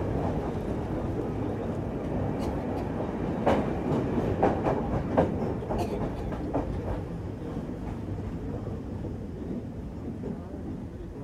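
Passenger train running along the track, heard from the carriage door: a steady rumble of wheels on rails. A run of sharp clacks from the wheels over rail joints comes in the middle, and the sound grows a little quieter toward the end.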